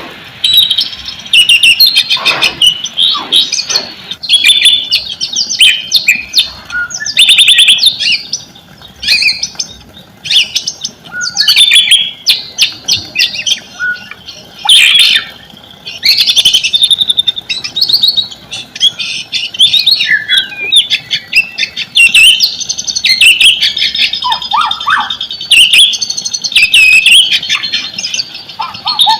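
White-rumped shama (murai batu) singing loudly and almost without pause: a fast, varied song of whistles, rapid trills and sharp clicking notes, broken by short gaps.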